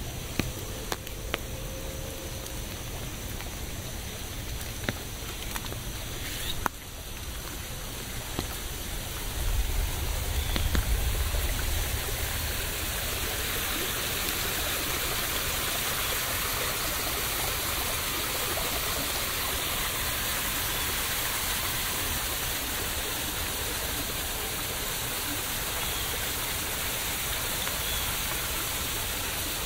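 Rain falling: at first a lighter shower with separate drops ticking on a surface, then about ten seconds in, after a brief low rumble, it becomes a heavier, steady downpour.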